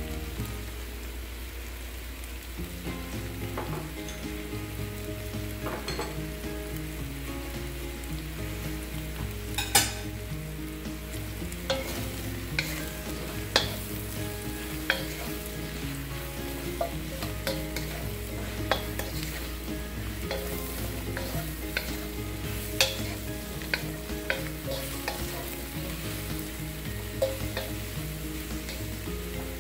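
Sliced button mushrooms sizzling in butter and olive oil in a nonstick wok, with a steady frying hiss. A wooden spatula stirs and turns them, knocking and scraping against the pan in sharp clicks every second or two through the middle and later part.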